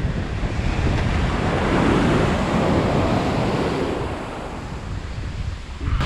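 Ocean surf on a beach: a wave breaks and washes in, swelling about a second in and easing off after about four seconds, with wind rumbling on the microphone.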